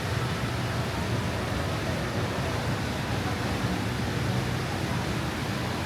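Steady rushing noise with faint voices in the background.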